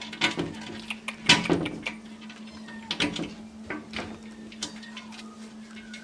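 A tortoiseshell cat meowing, mixed with several sharp clicks and knocks, over a steady low hum.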